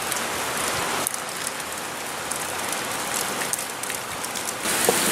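Steady rain from a hurricane squall pouring down, with scattered drops ticking close by. It eases a little about a second in and comes back up near the end.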